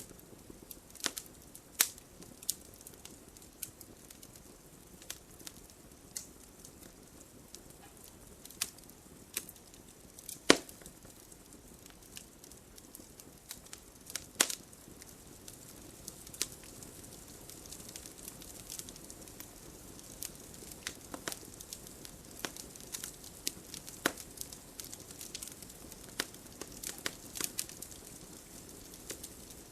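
Wood fire burning and crackling: irregular sharp pops and snaps over a soft steady hiss, two louder pops near the middle and thicker small crackling towards the end.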